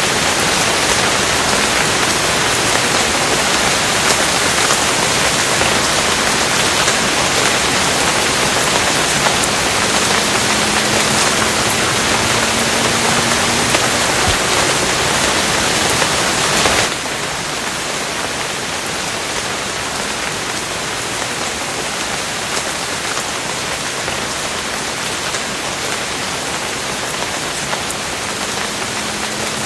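Steady rain, a dense hiss with fine pattering drops. About seventeen seconds in it suddenly drops in level and carries on softer and less bright.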